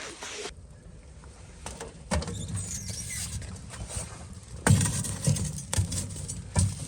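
Knocks, thumps and crunching as a snowy split firewood log is picked up and carried, several sharp knocks coming about two seconds in and then in a cluster over the last two seconds.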